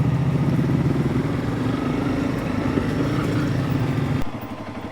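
Honda CRF300 Rally's single-cylinder four-stroke engine running at steady low revs. About four seconds in, the throttle closes and the engine note drops suddenly and gets quieter.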